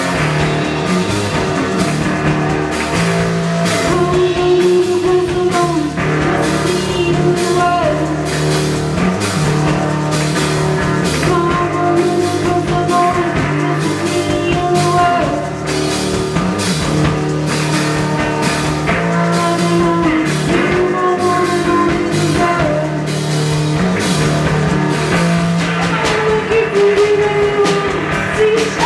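Rock music: electric guitar and a drum kit playing a steady beat, with held melodic notes and a singing voice.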